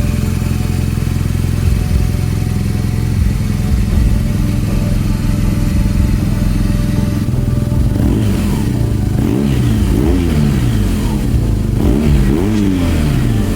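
BMW R nineT's boxer twin, breathing through an Akrapovic exhaust, idling steadily, then revved in a series of quick throttle blips from about eight seconds in, each rising and falling in pitch.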